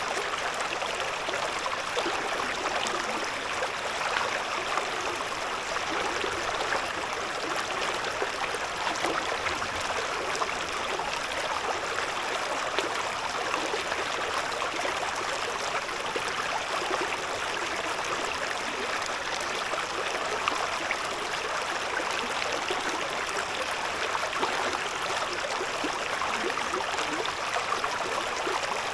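A shallow river babbling and splashing over stones, a steady, even rush of water.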